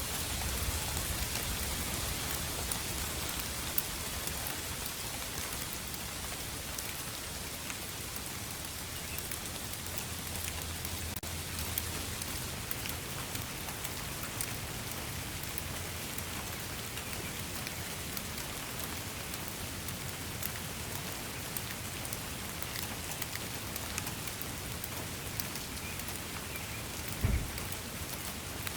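Steady rain falling, an even hiss with scattered individual drops ticking. A brief low thump near the end.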